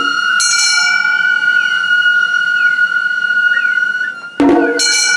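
Gion festival hayashi music: a Japanese bamboo transverse flute (fue) holding one long high note, broken off briefly about four seconds in. A small hand gong (kane) is struck twice, about half a second in and near the end, and rings on.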